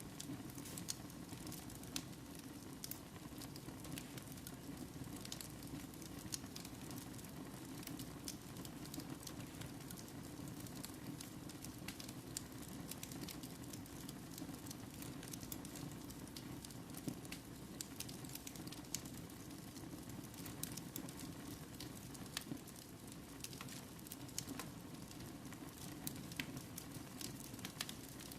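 Wood fire burning in a fireplace, crackling with frequent sharp irregular pops over a steady low hiss.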